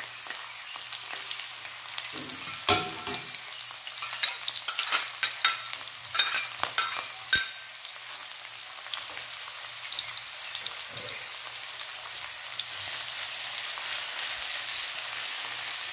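Sliced shallots and garlic sizzling steadily in hot oil in an aluminium wok. A metal spatula stirs them, clinking and scraping against the wok in a run of sharp knocks from about two to seven seconds in.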